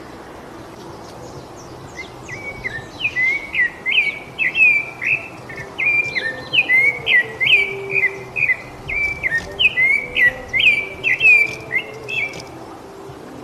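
Rufous-bellied thrush (sabiá-laranjeira) singing: a long run of short, quickly repeated whistled notes that starts about two seconds in and stops near the end.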